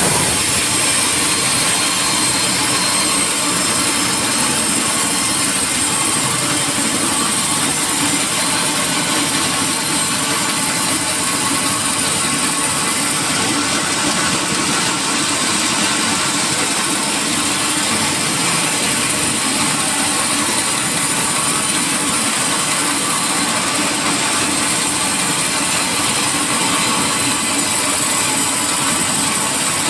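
Sawmill machinery running steadily, a loud even mechanical noise with no pauses or changes.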